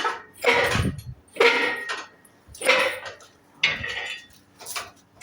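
Metal squeaking in a steady rhythm, about one squeak a second, five times, from the engine hoist as it is worked while the engine is positioned over the bay.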